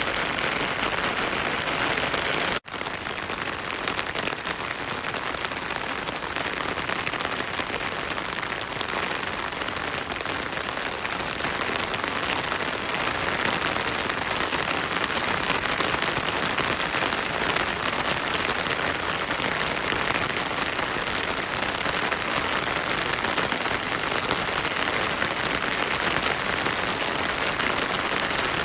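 Heavy rain falling through forest onto a stream, a steady dense hiss. The sound cuts out for an instant about two and a half seconds in, then carries on.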